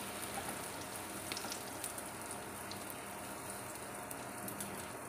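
Egg batter frying in oil on a hot tawa under a paratha being pressed down, a steady sizzle with scattered small pops.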